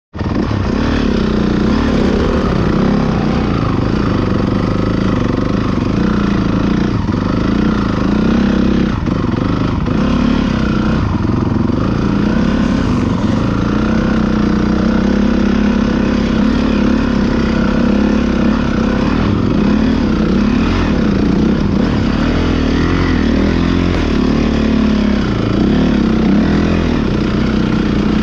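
Motorcycle engines running, several at once, with pitches wavering up and down as they idle and rev.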